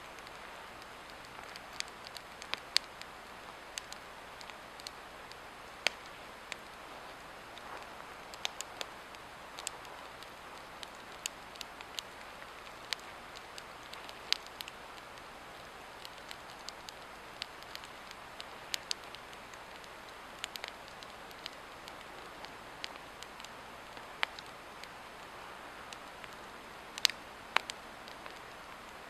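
Swedish torch log fire burning, with irregular sharp crackles and pops over a steady hiss, a few louder pops near the end.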